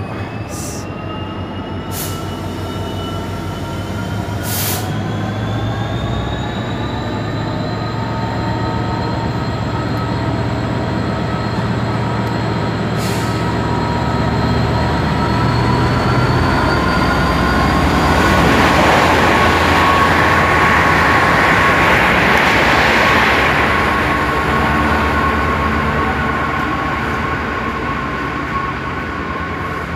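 Freightliner Class 66 diesel locomotive, with its two-stroke V12 EMD engine, running past hauling an intermodal container train. The engine note climbs steadily over the first several seconds. The container wagons then roll by, loudest past the middle, with a steady high tone over the rumble of the wheels.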